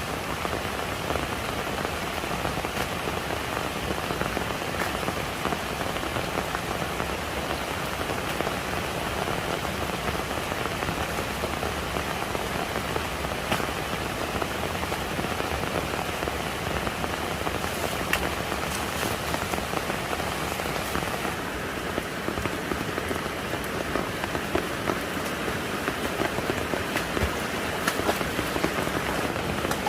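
Steady heavy rain falling, a dense patter of drops without pause.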